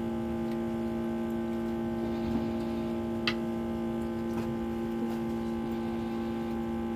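A steady hum made of several fixed tones that do not change in pitch, with one sharp click about three seconds in.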